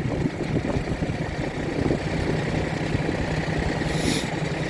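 A vehicle engine running steadily with an even low hum, with a brief high hiss about four seconds in.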